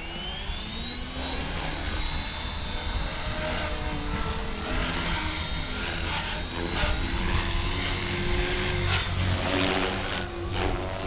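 Electric RC helicopter spooling up: the motor and rotor whine rises in pitch through the first couple of seconds, then holds steady at a high pitch as the head reaches speed.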